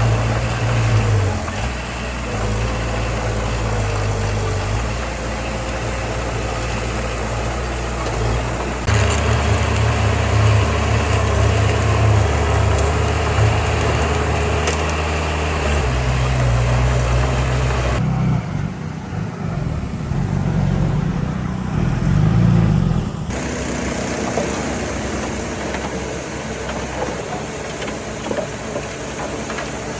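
Heavy diesel earthmoving machinery running, a deep engine drone that shifts abruptly in pitch and character several times.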